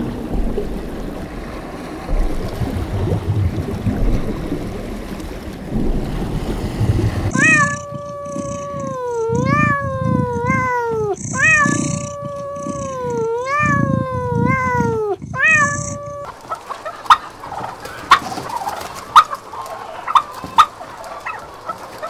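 A low rumbling noise, then a very young kitten mewing over and over in wavering calls for about nine seconds. Near the end come a turkey's sharp, irregular clucks.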